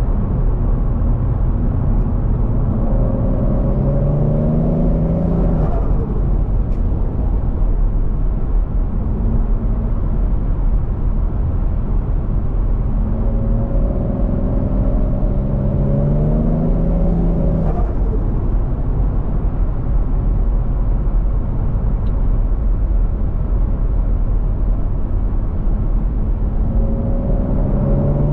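Turbocharged 1JZ-GTE VVTi straight-six in a Scion FR-S accelerating hard three times, engine pitch rising through each pull over a steady low road rumble. Each pull ends with a short burst of turbo flutter as the throttle closes, about six seconds in, at about eighteen seconds, and near the end.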